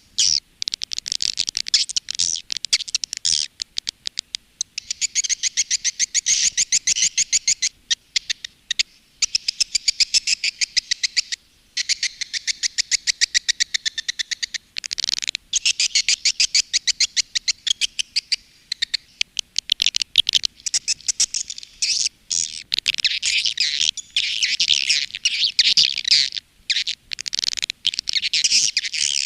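Swiftlets (walet) twittering: dense, rapid trains of high chirps with only a few brief breaks. It is a recorded swiftlet call track of the kind played to lure swiftlets into a swiftlet house to roost.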